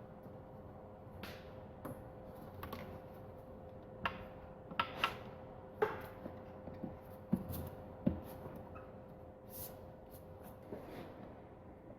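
Scattered light clicks and knocks of hand tools and engine parts being handled, busiest in the middle, over a faint steady hum.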